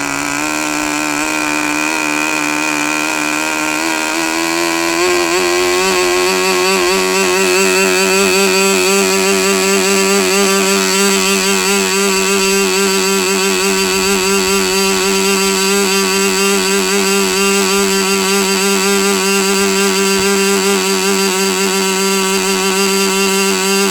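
K&B .40 R/C two-stroke glow model aircraft engine running with its propeller at a slightly rich break-in mixture. Its pitch climbs a little about five seconds in, then holds steady.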